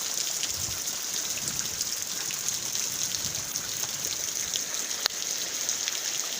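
Steady rain falling: an even hiss with many small drops ticking through it, and one sharper tap about five seconds in.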